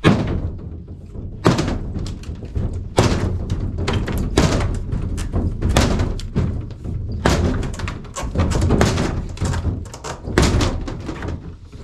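Repeated heavy knocks and bangs, about a dozen, irregularly spaced: something being struck and wrenched loose during demolition work.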